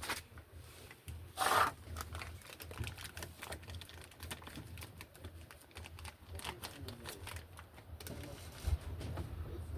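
Scattered light clicks and taps of tools and parts being handled, with one louder scrape or knock about a second and a half in.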